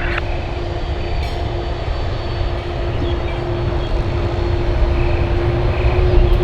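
Airliner on final approach: a low engine rumble with one steady engine tone, growing louder as it comes in.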